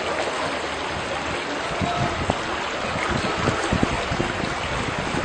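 Outdoor rushing noise of wind, or possibly running water, with wind buffeting the microphone in irregular low thumps from about two seconds in.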